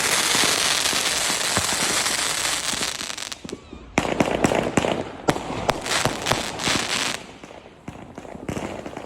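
Fireworks going off: a loud hissing rush for about three seconds, then a dense run of crackling from about four seconds in to about seven, then scattered pops.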